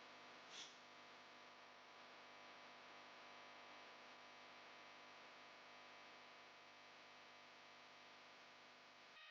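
Near silence: a faint steady hiss and hum, with one brief faint high-pitched sound about half a second in.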